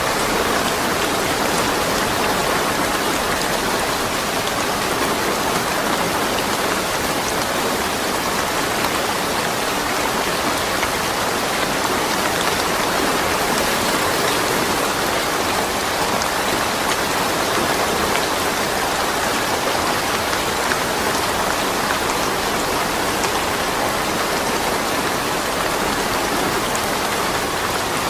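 Steady rain falling without thunder, a dense even hiss with scattered drops striking surfaces.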